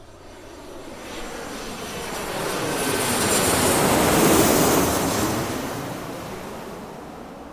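An airplane passing by: its engine noise grows steadily louder to a peak about four seconds in, then fades away again.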